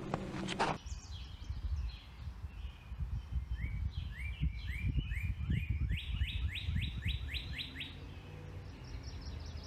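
Songbird calling: a run of quick rising chirps that crowd closer together near the end before stopping, over a steady low rumble.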